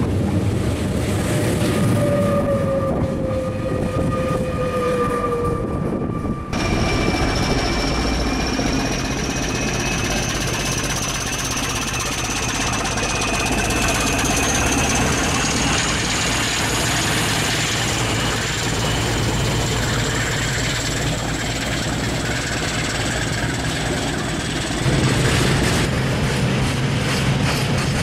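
Trains running close by. First a passing passenger train with a whine that falls slightly in pitch. After a cut, a diesel locomotive runs with a high whine that slowly rises, and near the end a deeper steady engine hum comes in as a diesel shunter hauls flat wagons.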